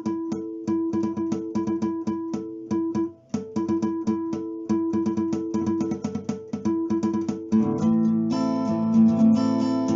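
Background music: an acoustic guitar picking a quick, repeating pattern of notes, joined about seven and a half seconds in by fuller, sustained chords.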